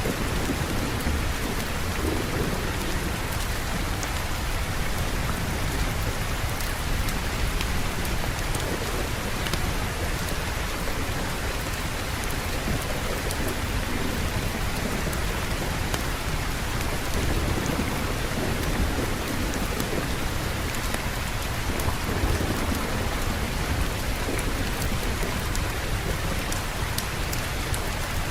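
Steady heavy rain with low, rolling thunder rumbling in the background now and then.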